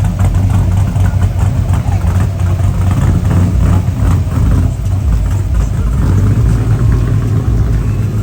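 Car engine running at idle, loud, with a low steady note.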